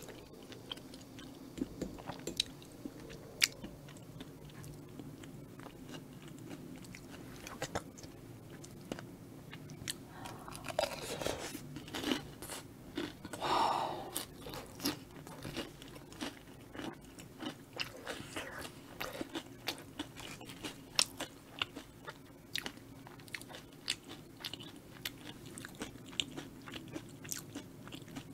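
Close-miked chewing and biting of crispy Korean fried food (twigim), with many sharp crunches throughout. A short vocal sound comes about halfway through.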